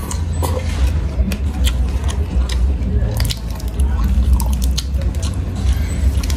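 Close-up eating sounds: crisp lettuce being bitten and chewed with wet crunching and mouth noises, then lettuce leaves crackling as they are torn by hand. Many small clicks and crackles run over a steady low hum.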